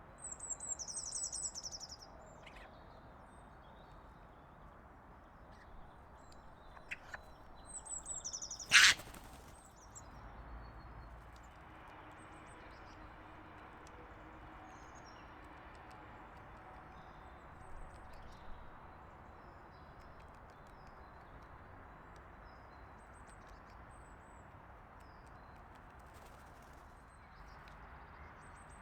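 Small songbirds chirping in quick high bursts, first at the start and again about eight seconds in, followed at once by a single sharp knock. After that only a few faint high calls sound over a low steady outdoor hiss.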